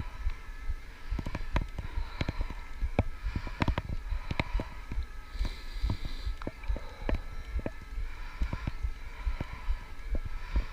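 Electric bike ridden over a rough track: irregular knocks and rattles from the bike and its mount on the bumps, over a low rumble, with a faint steady hum from the electric motor working uphill.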